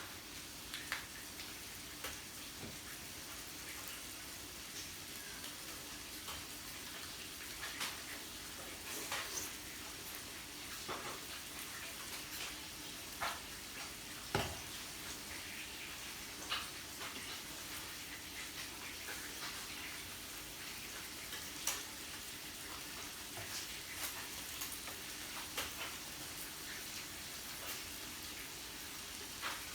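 Meat sizzling steadily on a yakiniku grill, with scattered sharp pops and clicks.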